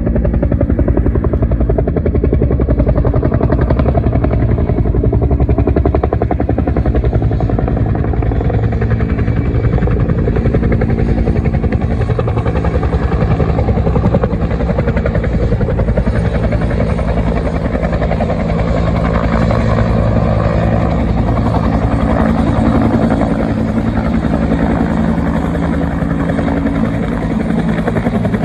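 Military helicopter running loud and steady: a rapid, even chop of the rotor blades over a low engine hum.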